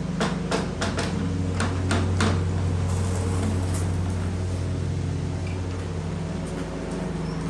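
About eight quick knocks in the first two and a half seconds, over a steady low mechanical hum.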